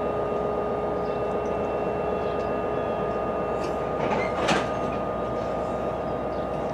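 NJ Transit commuter train at the platform, a steady mechanical hum with a few faint steady tones. A brief, louder rattle comes about four and a half seconds in.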